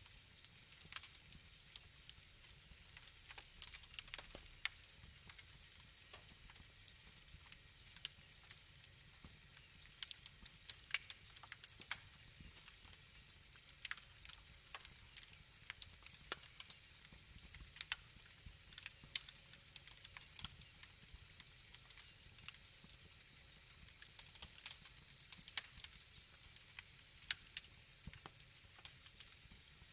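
Wood fire crackling: irregular sharp pops and snaps, a few louder than the rest, over a faint low rumble of the flames.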